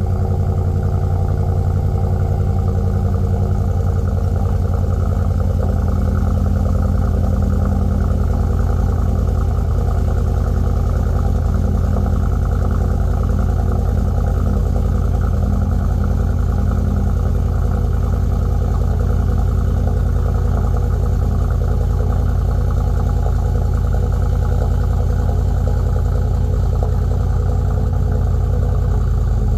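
Ford 7.3 L Godzilla gasoline V8 idling steadily through a muffler-delete exhaust, with a deep, even exhaust note.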